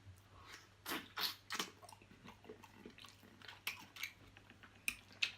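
Close-up eating sounds of a person eating saucy crab: wet chewing and smacking with scattered irregular clicks and crunches.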